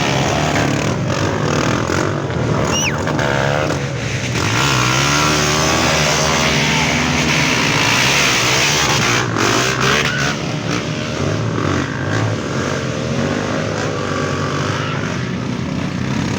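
Several off-road trail motorcycles revving hard through deep mud, their engine pitch overlapping and rising and falling as the riders work the throttle.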